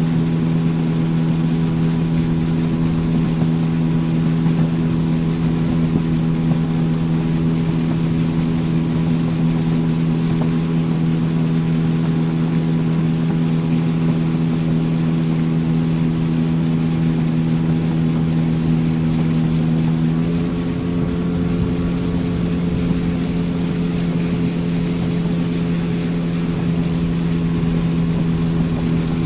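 Motorboat engine running steadily under way, heard from aboard over the wash of water and wind. About twenty seconds in, its pitch steps up slightly as the engine picks up a little speed.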